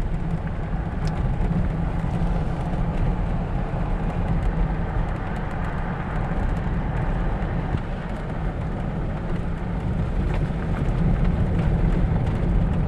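Jeep driving along a forest road: a steady low drone of engine and tyre noise, with faint scattered ticks over it.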